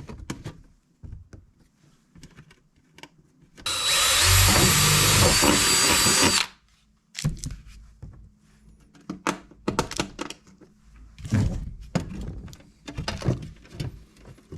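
Power drill boring a hole through metal, running steadily with a whine for nearly three seconds. Scattered clicks and knocks of metal pieces being handled come before and after it.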